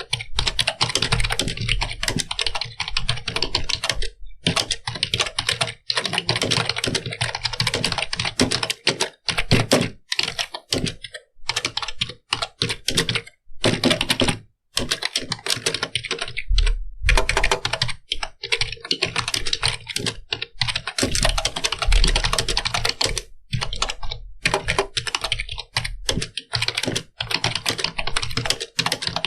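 Fast, continuous typing on a computer keyboard: rapid runs of key clicks broken by brief pauses.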